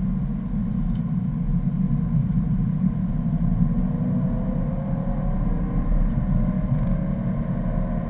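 A 2011 BMW M3's 4.0-litre V8 heard from inside the cabin, running hard under a dense, steady rumble of road and wind noise. Over the second half its note climbs steadily as the car accelerates.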